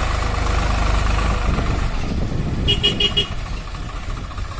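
Tractor diesel engine running under load with a steady low rumble, while a horn gives four quick beeps a little past the middle.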